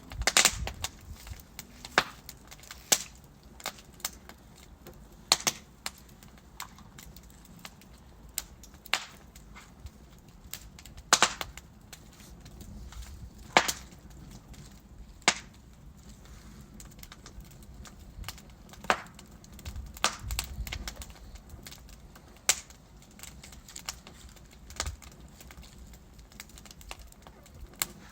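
Wood fire crackling: burning logs give sharp irregular pops and snaps, a few seconds apart with a few quick clusters, over a low steady hiss of flames.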